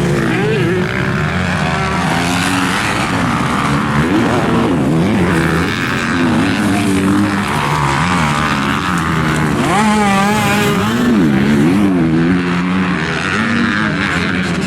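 250 cc four-stroke motocross bike engine at race pace, revving up and dropping back over and over as the rider accelerates, shifts and backs off for the turns and jumps.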